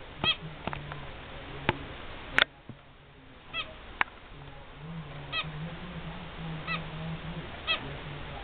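Zebra finch giving short nasal honking calls, about five of them spaced out over several seconds, with a few sharp clicks between them.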